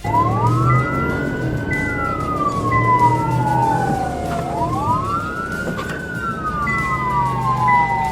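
Two police car sirens on wail, sounding slightly out of step. Each rises quickly and falls slowly, repeating about every four and a half seconds, over the noise of moving vehicles.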